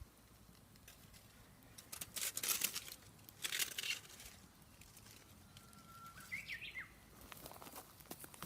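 A bird gives one short whistled call, a held note that jumps up and wavers, about six seconds in. Before it come two short rustling bursts.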